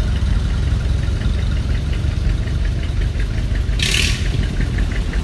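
Antique tractor engine running at a slow, steady pace, with a low rumble and a regular tick about five times a second. A short hiss comes about four seconds in.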